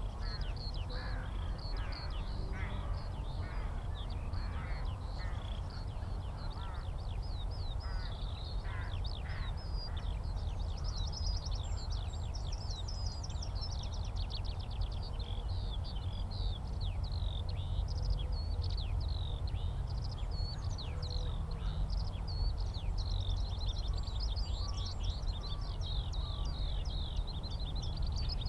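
Skylark song: a continuous, rapid stream of high, fluttering warbled notes with no breaks. Lower, harsher bird calls join it in the first third. A steady low rumble lies underneath.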